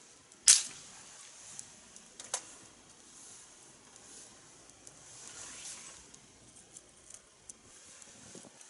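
Wood campfire crackling, with scattered sharp pops over a soft hiss of burning. The loudest pop comes about half a second in, and another comes a couple of seconds later.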